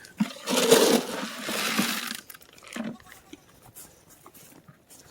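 Dry animal feed pouring and rattling as it is scooped, in two rushes over about two seconds, followed by a short knock.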